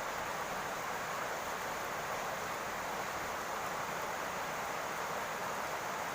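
Steady rain falling on a roof, an even hiss with no separate drops standing out.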